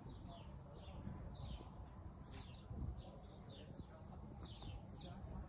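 Small birds chirping: many short, falling chirps, several a second, over a low steady background rumble.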